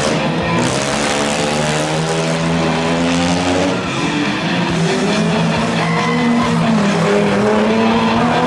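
Engines of several demolition derby cars running and revving, their pitch rising and falling as the cars manoeuvre.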